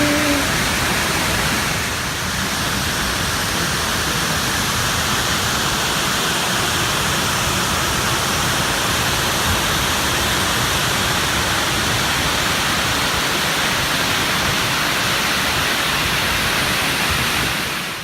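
Fukuroda Falls, a large multi-tiered waterfall, pouring in a steady, loud rush of water.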